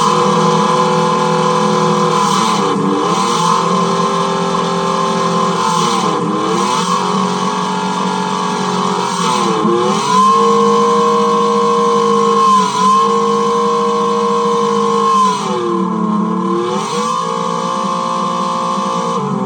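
Ferrari Enzo V12 engine and exhaust running at held revs, the pitch dropping briefly and climbing back five times, about every three seconds.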